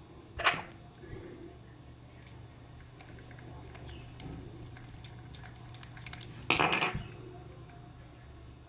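Hard small objects clinking and clattering: one short clatter about half a second in and a longer, louder one near the end, over a low steady hum.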